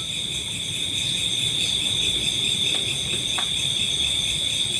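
A steady, high-pitched chorus of night insects, crickets, trilling without a break.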